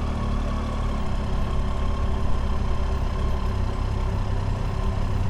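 Motorcycle engine, the Triumph Tiger 800's three-cylinder, running steadily at low revs at town speed or idle.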